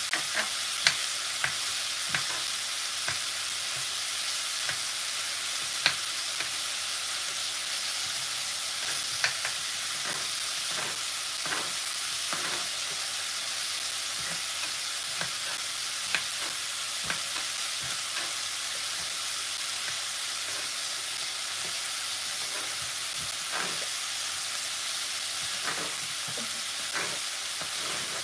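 Chopped onion, spring onion and garlic sizzling steadily in a pot, with scattered sharp knocks of a knife on a wooden chopping board as peppers are cut.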